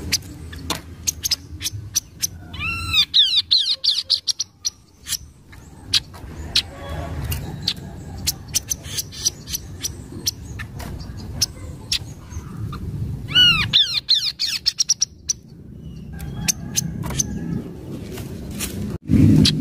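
Kaso-kaso bird calling: many short, sharp chirps, with two runs of quick arched, rising-and-falling notes about three and thirteen seconds in. A steady low rumble sits underneath.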